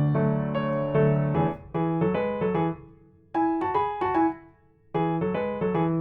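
Background piano music: gently struck notes and chords, with two brief pauses near the middle.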